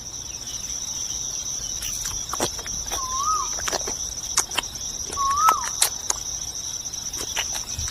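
Insects, likely crickets, trilling in a steady high-pitched chorus, with scattered sharp clicks and two short whistled bird calls, one about three seconds in and one about five seconds in.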